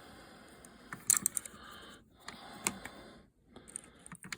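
Small parts being handled, a scattering of sharp clicks and light rattles, with a quick cluster of clicks about a second in and several more near the end.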